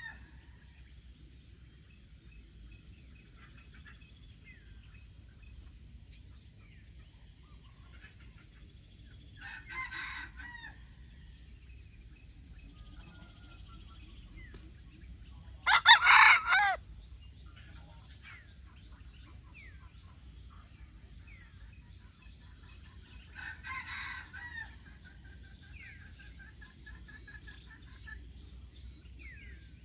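A rooster crows loudly once, midway, and fainter crows answer from farther off before and after it. A steady high insect drone runs underneath, with a few faint bird chirps.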